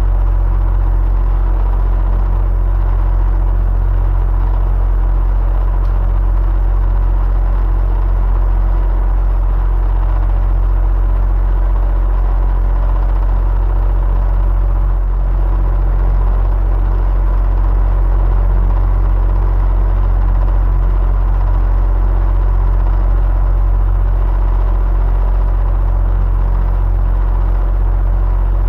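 Electric fan running steadily: a constant low rumble with a faint, even hum on top.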